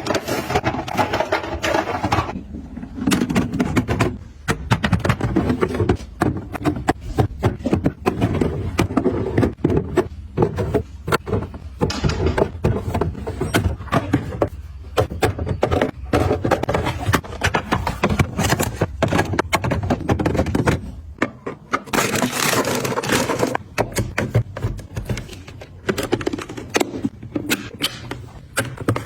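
Restocking handling sounds: products and containers picked up and set down with many quick clicks, taps and knocks, over rustling of packaging. About 22 seconds in comes a louder hissing rustle.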